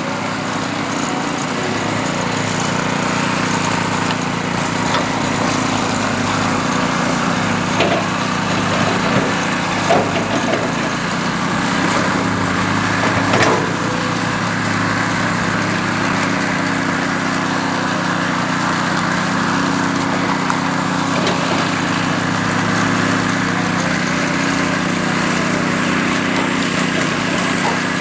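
Power trowel's small petrol engine running steadily while its blades scrape and grind over the concrete surface, with a few sharp knocks.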